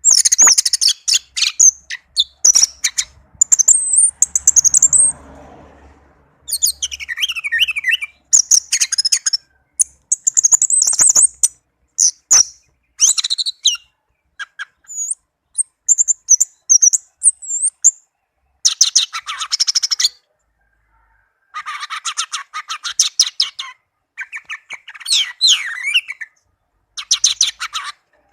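Orange-headed thrush singing: a string of loud, high, varied chattering phrases separated by short pauses.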